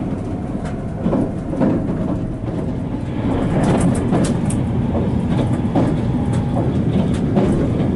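Interior running noise of a JR Kyushu 787 series electric train at speed: a steady low rumble of wheels on rails, with scattered short clicks over the track.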